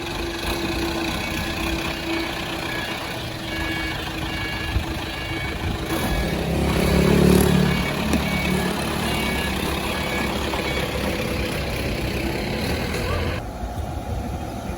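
An engine running steadily, swelling to a louder low rumble about halfway through; the sound changes abruptly near the end.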